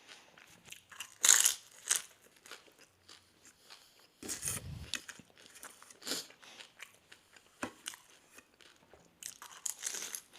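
Crunching and chewing of doi fuchka, crisp hollow puri shells filled with yogurt, eaten one after another. A few louder crunches stand out among quieter chewing.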